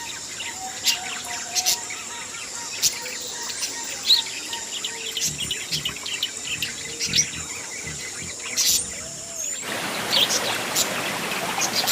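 Green parrots giving short, sharp calls over a steady high insect-like drone. About nine and a half seconds in, the sound changes abruptly to a louder even hiss, with the calls continuing over it.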